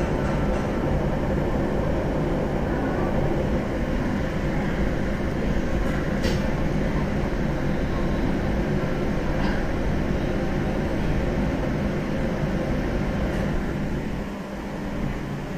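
JR 701-series electric train running along the line, heard from inside the car: a steady rumble with a low hum, and a couple of brief sharp clicks about six and nine seconds in.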